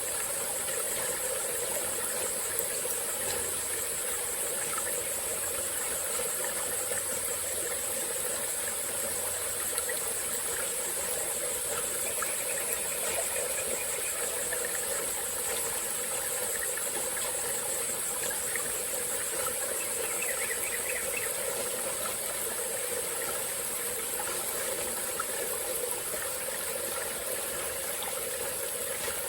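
Small tropical forest stream flowing steadily, under a constant high-pitched insect chorus.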